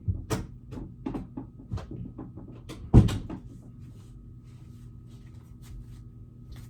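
Clothes hangers and a closet door being handled: a quick run of clicks and knocks, with one loud knock about three seconds in, then only a low steady hum.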